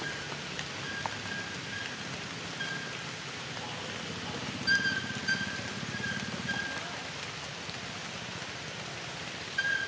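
Steady hiss and patter of light rain. A short high chirp repeats in broken runs over it, loudest about five seconds in.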